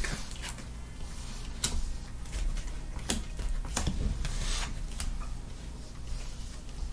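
Trading cards being handled on a table: scattered light taps and rustles, over a steady low hum.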